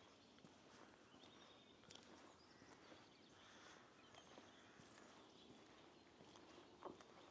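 Faint morning birdsong: scattered short chirps over a quiet background, with soft irregular footsteps on a lane and one sharper knock a little before the end.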